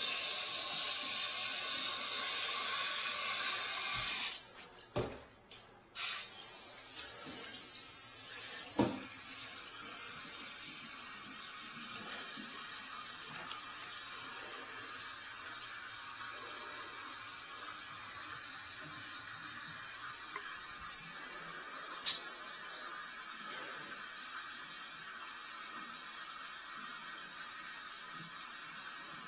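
Water running steadily, a continuous hiss that breaks off briefly about four seconds in and resumes, with a few clicks and one sharp click a little past twenty seconds.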